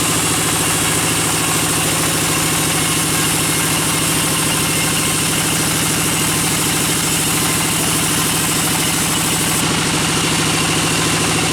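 Engine of a bandsaw sawmill running steadily at constant speed, with a fast, even pulse.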